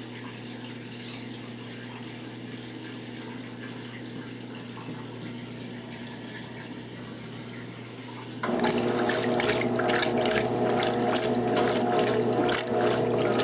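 Electrolux Top 8 top-loading washing machine in its rinse cycle: a steady low hum, then about eight and a half seconds in, a loud rush of splashing water starts suddenly and keeps going.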